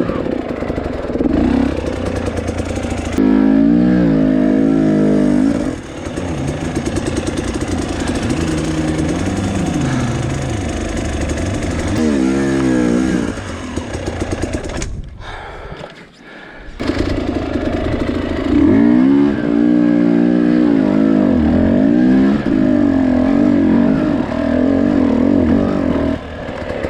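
Two-stroke dirt bike engine revving up and down hard under load on rough trail. The revs rise and fall repeatedly, drop out briefly about two-thirds of the way through, then pick up again.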